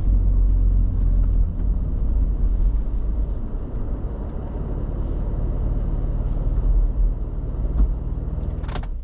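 Small roadster driving uphill: a steady low engine and road rumble. A brief sharp sound comes just before it cuts off.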